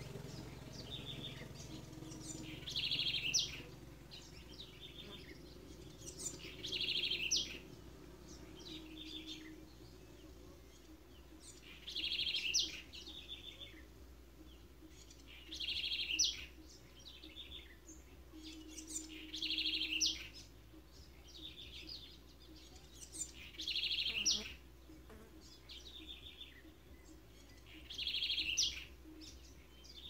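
A songbird singing a short, high, trilled phrase of about a second, repeated about seven times at intervals of four to five seconds, sometimes followed by a fainter shorter trill.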